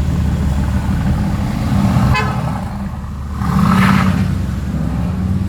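Supercar engine running with a low steady rumble; a short car horn toot sounds about two seconds in, and the engine noise swells briefly a little before the four-second mark.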